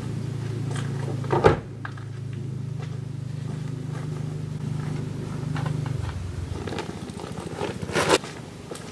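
A vehicle engine idling with a steady low hum, switched off about six seconds in. There is a sharp knock about one and a half seconds in and a few more near the end.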